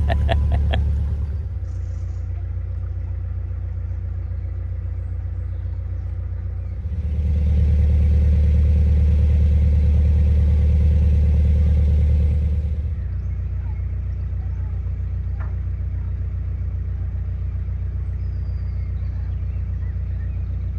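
Narrowboat engine running steadily at cruising speed, a low hum. From about seven seconds in it grows louder and fuller for roughly six seconds, then settles back.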